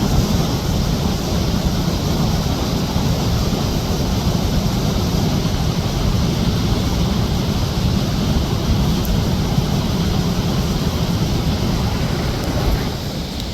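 Steady rushing of a waterfall, a continuous loud wash of falling water that eases slightly near the end.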